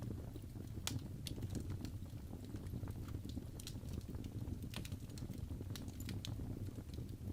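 Wood fire burning in a fireplace: a steady low rumble of flames with irregular crackles and pops, the sharpest snaps about a second in and again near the middle.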